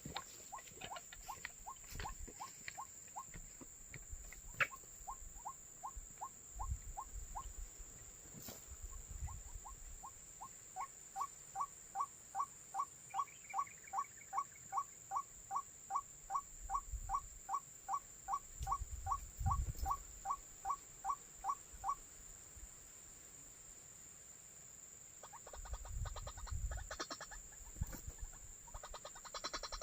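White-breasted waterhen calls: short notes repeated about three a second in runs broken by brief pauses, loudest and most regular in the middle. Near the end a dense, rattling chatter takes over.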